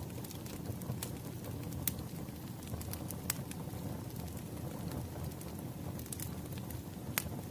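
Firewood burning and crackling: a steady low rumble of flames with scattered sharp pops.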